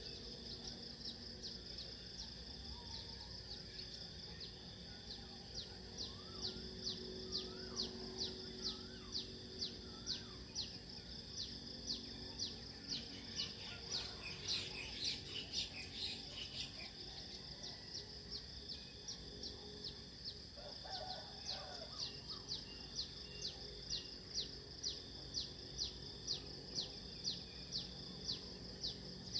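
Outdoor nature ambience: a steady high drone with a short high chirp repeating about twice a second, and a few softer, lower bird calls.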